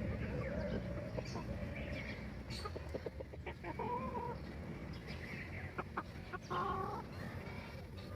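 Domestic chickens clucking, with two clearer drawn-out calls about four and about seven seconds in, a few sharp ticks between them, and a steady low hum underneath.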